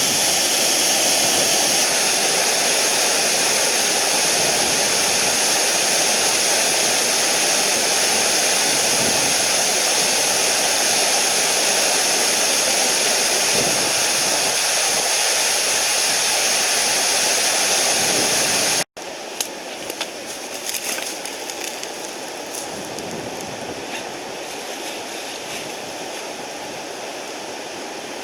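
Mountain stream water rushing, a loud, even hiss. About two-thirds of the way through it cuts abruptly to a quieter stretch of the same kind of water noise, with scattered short clicks and knocks.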